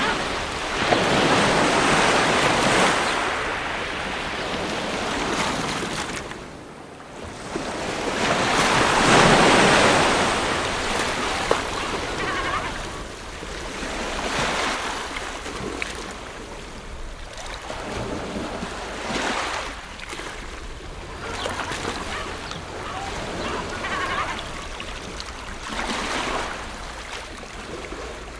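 Ocean surf, waves breaking and washing in as swells of rushing noise. There are two big surges in the first half, then smaller waves about every two to three seconds.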